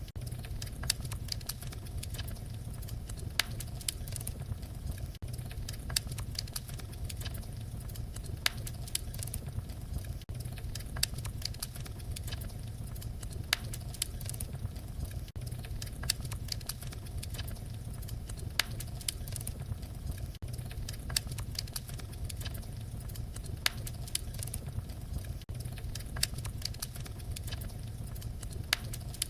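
Wood fire crackling: irregular sharp pops and snaps over a steady low rumble of the flames, with a brief dip in level about every five seconds.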